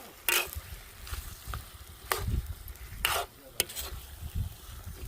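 Food being stirred in a cooking pot: a few short scraping strokes of a spoon against the pot.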